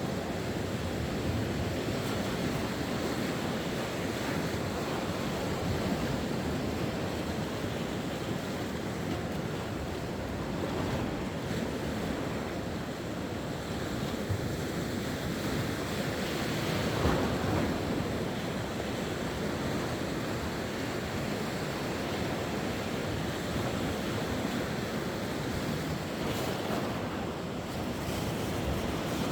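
Sea waves washing onto the shore: a steady surf noise, with one slightly louder wave a little past halfway.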